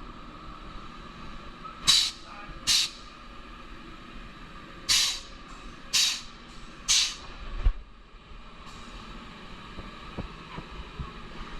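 Five short hisses of compressed air from a pneumatic tool, two close together, then three about a second apart, over a steady shop hum.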